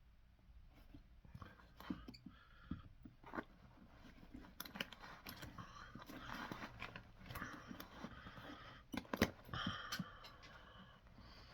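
Irregular scraping, crunching and sharp clicks of hand work on a leather boot, with a louder knock about nine seconds in.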